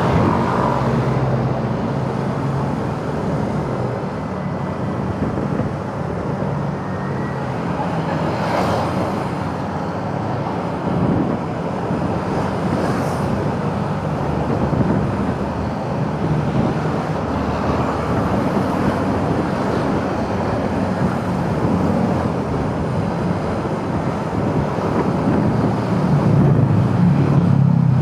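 Motorcycle engine running under way, with road and wind noise and passing traffic; the engine gets a little louder near the end.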